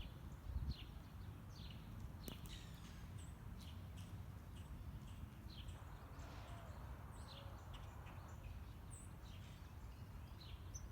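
Birds chirping faintly in short, high, falling notes, about once or twice a second, over a steady low rumble of outdoor background noise.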